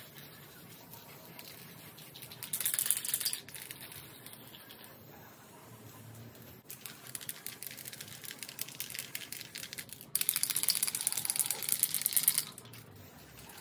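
Black acrylic aerosol spray paint can spraying with a sputtering hiss: a short burst, then a long spray that grows louder near the end.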